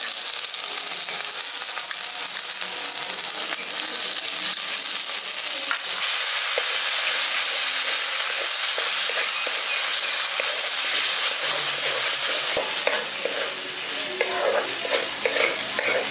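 Grated coconut and cashew-paste masala sizzling in oil in a kadai, stirred with a wooden spatula that scrapes and clicks against the pan. The sizzle gets louder about six seconds in.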